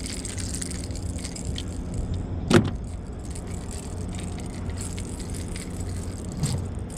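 Boat motor running steadily with a low hum over river noise, broken by one sharp, loud sound about two and a half seconds in.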